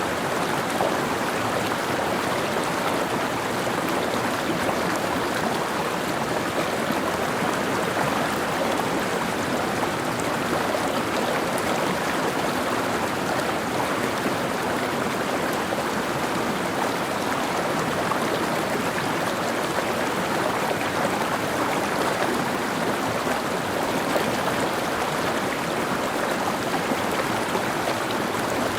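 Mountain stream flowing over rocks: a steady rush and babble of water with no change throughout.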